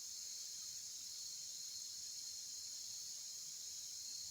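Steady high-pitched chorus of insects, unbroken and even.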